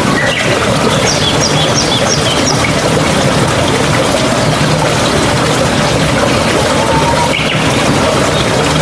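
Water running steadily in a mountain stream, with birds chirping over it: a quick run of about six short chirps about a second in and a brief whistled note near the end.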